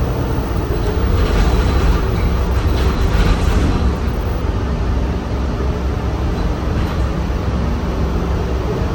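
Bus running, heard from inside: a steady low engine and road rumble, with a stretch of hiss between about one and four seconds in.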